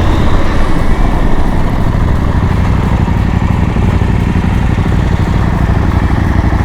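Motorcycle engine running steadily, a loud low drone.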